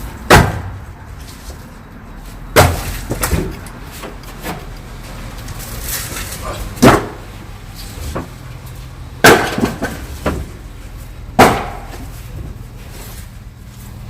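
Split firewood logs being tossed down one at a time: six sharp, loud knocks about two seconds apart.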